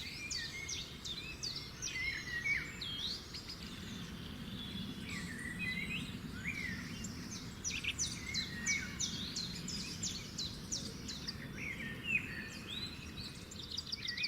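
Several songbirds singing and calling at once, a busy mix of chirps, trills and whistled notes, over a low steady hum.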